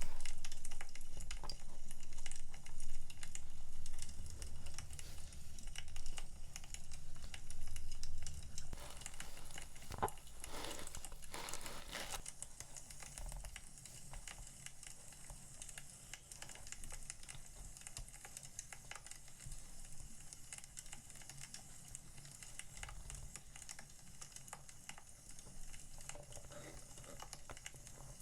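Crackling of burning firewood: many small irregular pops and snaps, louder in the first third and quieter after. About ten seconds in, packaging crinkles for a couple of seconds.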